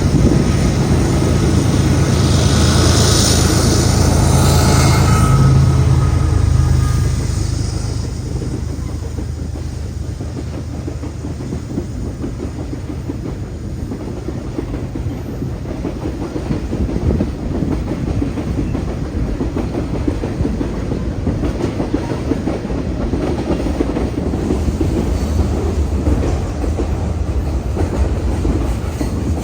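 Train passing close by: a diesel locomotive's engine is loudest for the first several seconds, then a long string of rail cars rolls past with steady wheel clatter.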